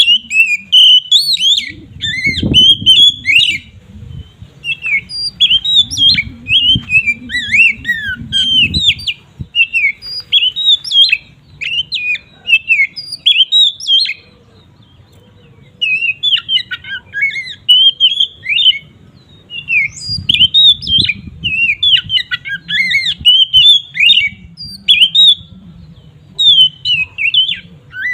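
Oriental magpie-robin (kacer) singing a full, continuous song of rapid, varied sharp whistles and chirps in quick phrases, with a pause of about two seconds midway.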